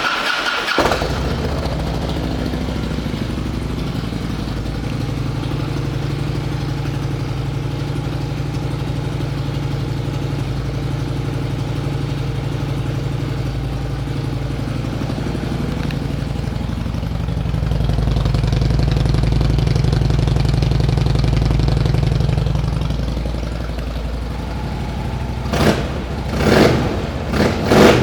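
A 2008 Harley-Davidson Ultra Classic Electra Glide's Twin Cam V-twin starts, catching within about a second, then idles steadily through aftermarket pipes that look to have had their baffles taken out. The idle runs a little louder for several seconds past the middle. Near the end the throttle is blipped three times in quick succession.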